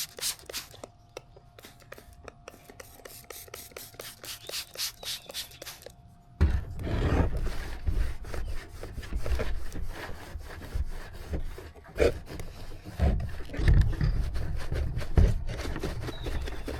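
Quick back-and-forth rubbing strokes by hand on a plastic tail-light lens, several strokes a second, as it is polished with fine buffing compound. About six seconds in it cuts abruptly to a louder, low rumbling noise with scattered knocks.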